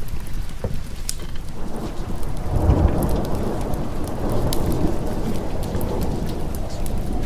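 Steady rain with a roll of thunder that swells about two and a half seconds in and rumbles away over the next few seconds. Scattered sharp crackles sound over it.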